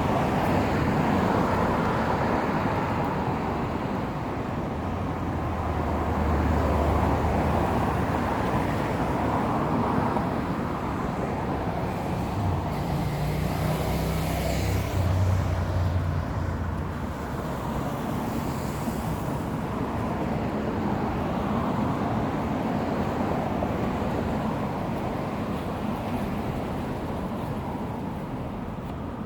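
Road traffic: a steady rush of passing vehicles, with the low hum of engines growing stronger twice as vehicles go by.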